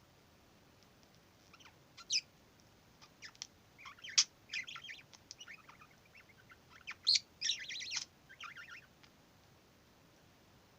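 Pet budgerigar chattering: irregular high chirps and warbling chatter that start after about a second and a half, with the loudest sharp calls about four and seven seconds in, falling quiet near the end.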